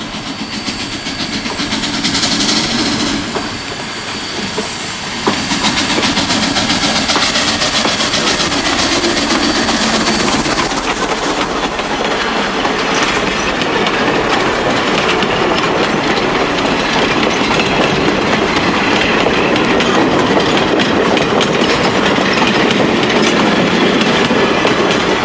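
A steam locomotive passes close by. A string of old freight cars and a wooden caboose follow, rolling past with a steady rapid clicking of wheels over the rail joints.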